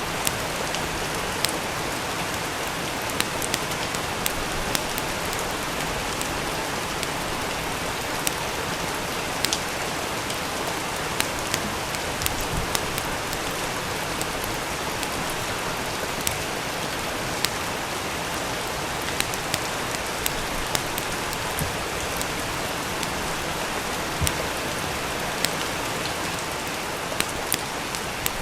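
Steady rain, with scattered sharp crackles and pops from a wood fire, one or two a second at irregular intervals.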